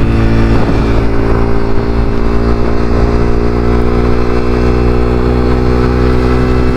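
Honda CBR300R's single-cylinder engine running steadily at low revs. The rider thinks it sounds bad and is taking it to the shop to be fixed.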